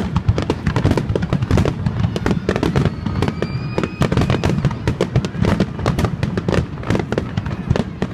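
Fireworks going off in a dense, rapid barrage of bangs and crackles.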